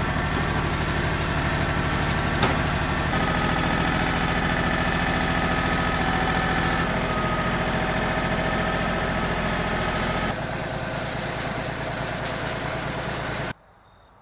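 Small diesel tractor engine running steadily, with one sharp click about two and a half seconds in. The sound changes abruptly twice, about three and about ten seconds in, and then cuts off to silence near the end.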